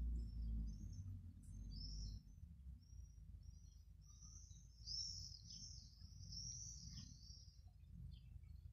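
Small birds chirping in a string of short high calls, thickest and loudest around the middle. A low rumble runs under the first couple of seconds.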